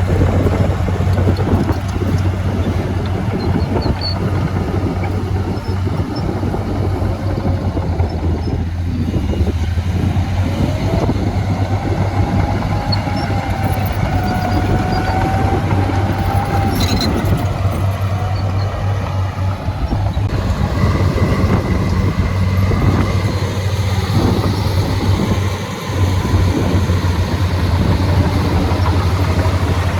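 Heavy diesel earthmoving machinery running steadily with a deep engine hum. A wavering whine rises and falls for several seconds in the middle.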